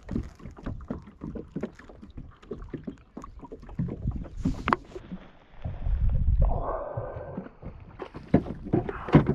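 Knocks and clicks of handling in a kayak, many small taps against the hull, with a low rumble of wind on the microphone about six seconds in and one sharper knock near the end.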